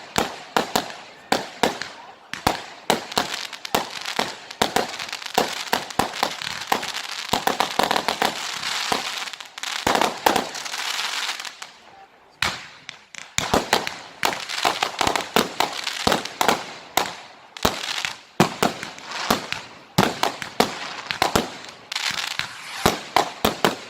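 Firework display: sharp bangs in rapid succession, with long stretches of dense crackling hiss about four seconds in and again near the end.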